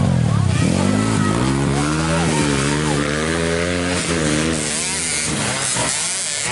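Racing motorcycle engines running hard, their pitch dipping and rising repeatedly as they rev and change gear.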